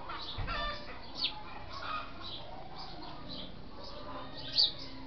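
Backyard birds chirping over and over, with two louder sharp down-sweeping calls, one about a second in and one near the end, and a short lower call about half a second in.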